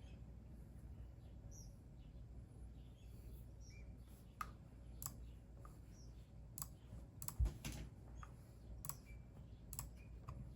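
Sparse single clicks at a computer: key or button presses, about one a second from around four seconds in, with a heavier knock about halfway through the clicks. Faint bird chirps and a steady low hum sit underneath.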